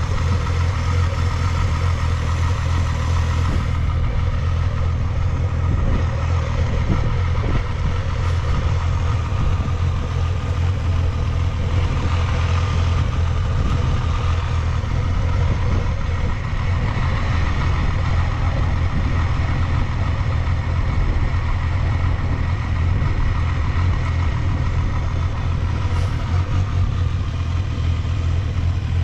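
1992 Honda Jade 250 (CB250F, MC23) motorcycle's 250 cc inline-four engine idling steadily, running smoothly with no abnormal noises.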